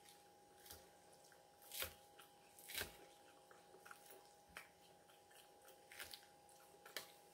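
Quiet chewing of salad, with scattered sharp clicks of a plastic fork tapping in a glass bowl; the two loudest clicks come about two and three seconds in.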